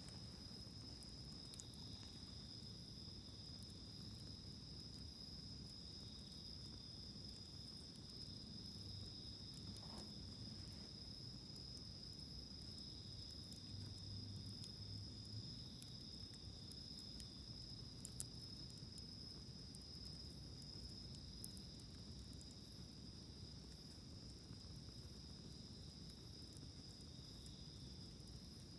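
Faint, steady high trilling of crickets or similar insects, with a softer pulsing call above it about once a second. Two small sharp pops near the end, about three seconds apart.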